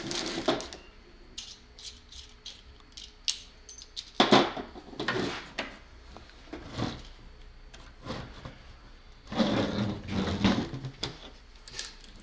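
Handling noises on a workbench: scattered sharp clicks and rattles, with two longer stretches of scraping and rustling about four seconds in and again near ten seconds.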